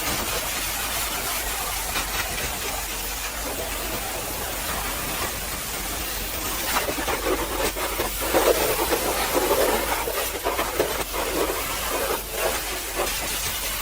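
High-pressure water spray from a pressure washer hitting a truck: a steady hiss, with uneven spattering surges in the second half.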